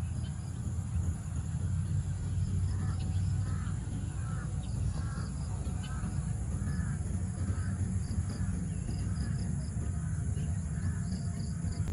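A bird calling in a run of short repeated calls, about one and a half a second, over a steady low rumble and a steady high hiss.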